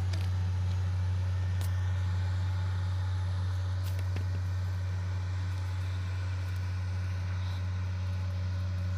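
Heavy diesel engine running steadily at a constant speed, an even low drone with a couple of faint clicks about one and a half and four seconds in.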